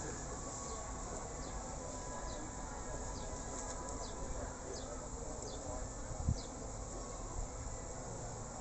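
Honeybee swarm buzzing steadily, the bees flying up again after being disturbed from their cluster. A single soft knock about six seconds in.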